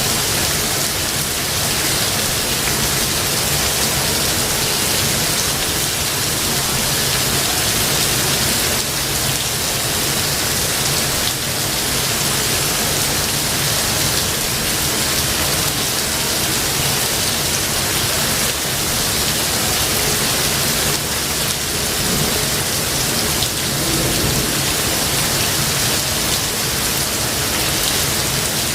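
Steady heavy rain falling on foliage, an even dense hiss, with a low rumble of thunder underneath.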